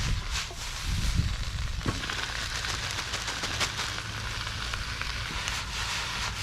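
Wood campfire crackling: a steady sizzling hiss with many small, sharp pops throughout.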